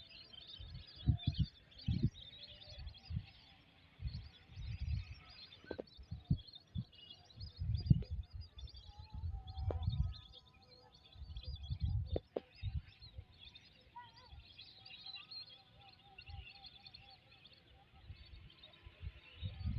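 Many small birds chirping and twittering in trees, with a few thin whistled calls, over irregular low rumbles and thumps on the microphone.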